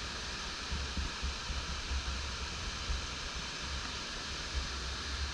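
Steady rushing of stream water, with an uneven low rumble of wind buffeting the microphone underneath.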